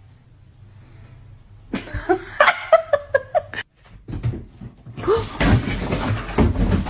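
A person laughing in a quick run of short bursts for about two seconds, followed by a cut and then mixed rustling and thumping noise.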